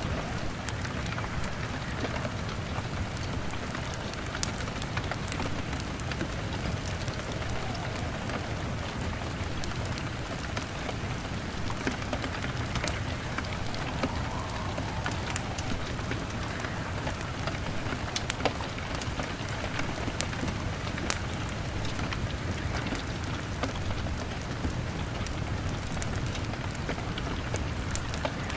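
Rain falling on a window with a wood fire crackling: a steady rain hiss scattered with frequent sharp ticks and pops, over a low steady rumble.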